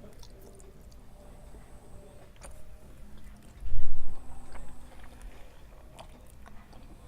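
Quiet eating noises from a spaghetti meal, a few faint sharp clicks of a fork or mouth, broken about three and a half seconds in by a loud, deep rumble that lasts about half a second.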